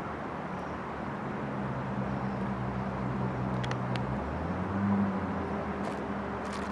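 A steady low engine hum over a rushing noise, its pitch shifting about four seconds in, with a few faint sharp clicks.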